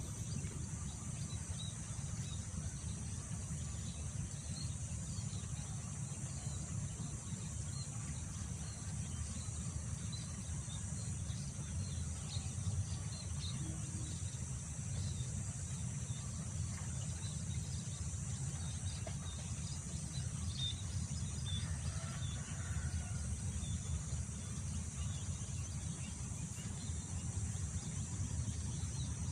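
Wind rumbling over the microphone beneath a steady high-pitched insect chorus, with scattered short bird chirps throughout and a brief cluster of lower bird calls about three quarters of the way through.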